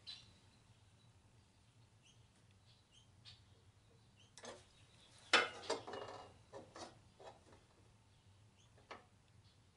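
A few light clicks and knocks of handling, the loudest cluster about five to six seconds in, over a faint low hum.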